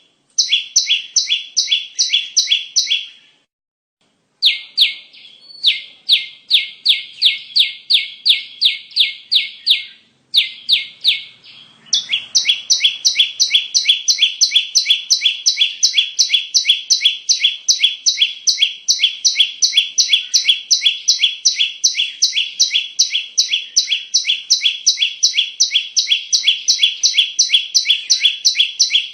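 Ciblek (prinia) call, a fast, even series of short, harsh chips about four a second. The series breaks off for about a second near the 3-second mark and again briefly near 10 seconds, then runs without a break from about 12 seconds. It is the ciblek call used as a lure sound to attract the birds.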